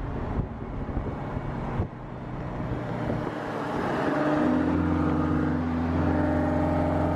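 Car driving with engine and road noise; about four seconds in the engine settles into a steady, even drone as the car holds its speed.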